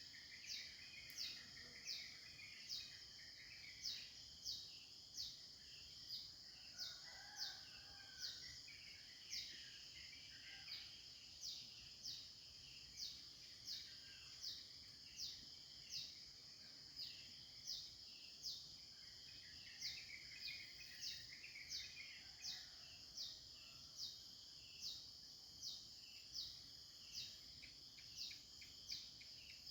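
Birds calling: one bird repeats a short, high, falling note about once a second, with softer chirping and warbling from other birds now and then, over a faint steady high insect hum.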